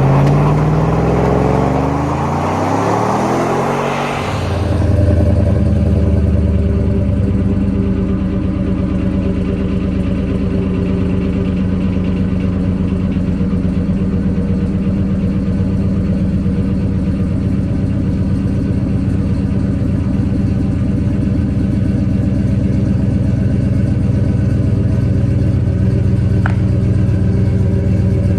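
2006 GMC Sierra's 6.0-litre LQ4 V8 cold-starting through a catless stock Y-pipe and a Flowmaster 40 Series muffler. It turns over and fires with rising pitch for about four seconds, then settles into a steady idle. A single light click near the end.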